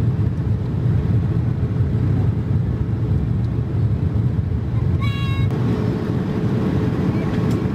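Steady low rumble of a Boeing 787-8's cabin in flight, the engine and airflow noise heard from an economy seat. A short high tone sounds about five seconds in.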